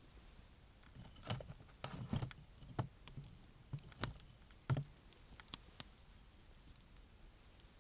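Wood fire crackling: a run of irregular sharp pops and snaps for the first five or six seconds, then only a few faint ticks.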